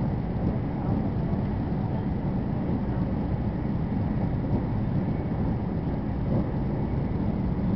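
Steady low running noise inside the passenger cabin of a Chinese high-speed bullet train travelling at speed.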